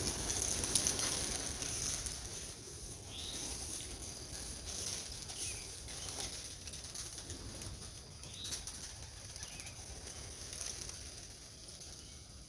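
Racing pigeons' wings flapping as the flock flies around the loft, loudest in the first couple of seconds and then fainter.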